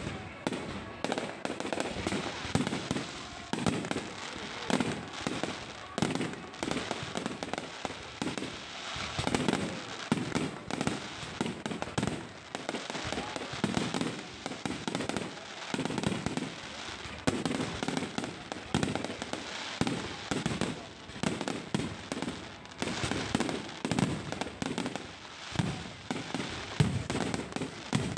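Low-altitude fireworks going off in a continuous barrage: sharp bangs and crackling several times a second, with no let-up.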